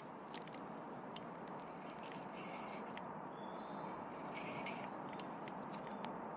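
Wood fire burning, with a steady low hiss and irregular sharp crackles and pops.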